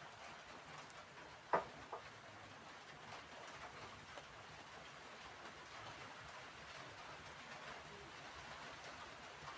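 Wood fire crackling softly and steadily, with one sharp loud pop about one and a half seconds in and a smaller pop just after.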